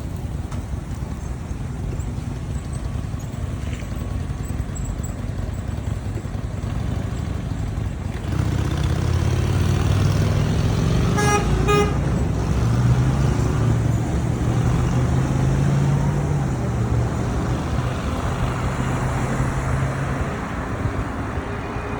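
Street traffic with a motor vehicle's engine running close by from about a third of the way in, over a steady low rumble. A vehicle horn gives two short toots near the middle.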